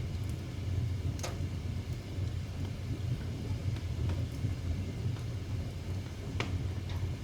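Wood fire burning in a fireplace: a steady low rumble with several sharp, scattered crackles and pops from the burning wood.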